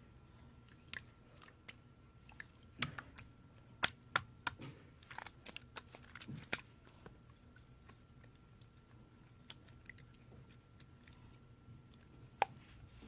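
Slime being mixed and squished by hand, giving sharp clicks and pops of trapped air, many together a few seconds in and one more near the end.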